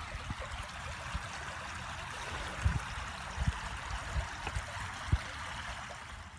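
Running water in a small stream, flowing with a steady rushing sound, with a few short low thumps.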